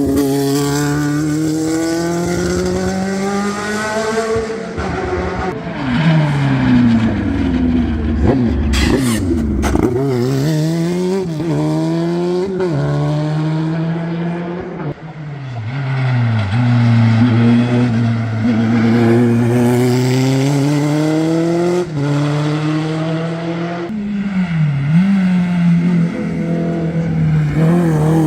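Historic competition car's engine under hard acceleration, its pitch climbing through each gear and dropping at the shifts and on lifting off, several times over. A few sharp pops sound about a third of the way in.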